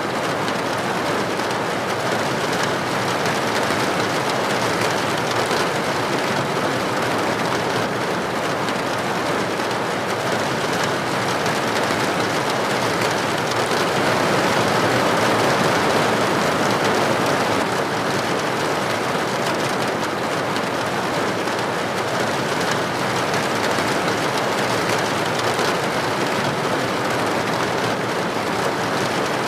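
Steady rain falling, an even hiss of countless drops with no pauses or changes.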